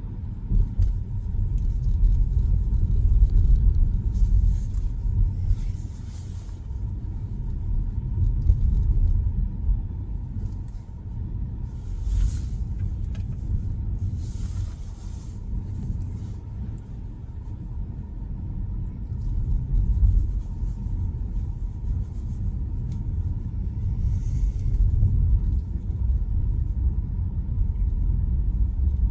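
Steady low tyre and road rumble heard inside the cabin of a Tesla Model Y driving over a messy, slushy snow-covered road, with a few brief hissing swells along the way.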